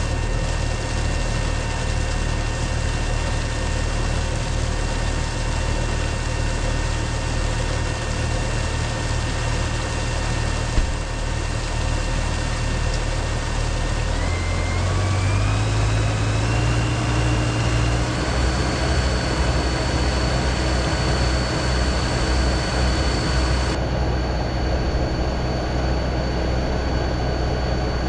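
Tractor engine running steadily while powering a manure-pit agitator. About halfway through, the engine speed rises in steps over a few seconds, then holds steady at the higher speed as the stirring gets under way.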